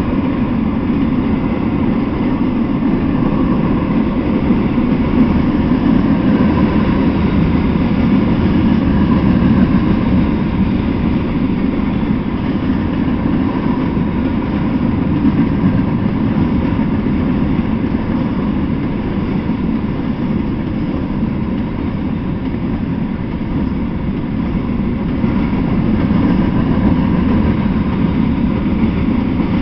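Mixed freight train rolling past, a steady rumble of wheels on the rails.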